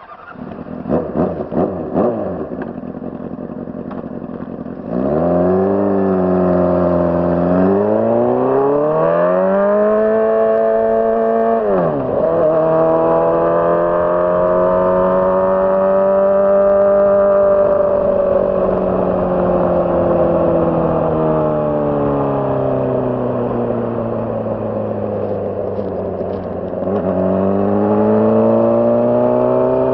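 Honda CBR600RR inline-four sport-bike engine gives a few sharp revs, then runs steadily at low revs. About five seconds in, it pulls away with the revs climbing, drops through an upshift near the middle, runs a long stretch with the pitch slowly rising then falling, and shifts again near the end.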